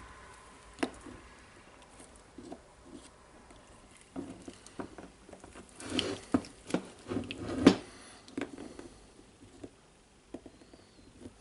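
Light clicks, taps and scrapes of small parts being handled while the DeWalt D25003 rotary hammer's hammering mechanism is greased, with a cluster of louder knocks about six to eight seconds in.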